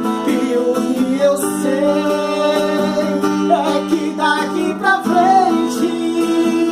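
Acoustic guitar playing with a singing voice that holds and bends notes without clear words.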